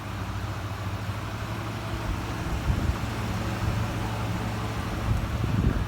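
Ford F-450's gasoline 6.8-litre V10 engine running steadily, a healthy-sounding low hum. A few brief low bumps come in partway through and near the end.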